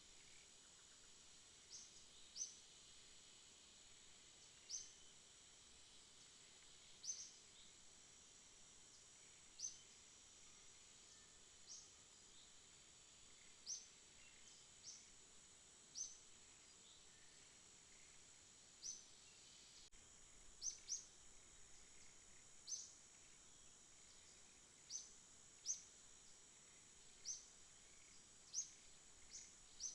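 Faint night ambience: a steady high-pitched insect drone, with short high chirps repeating irregularly every second or two.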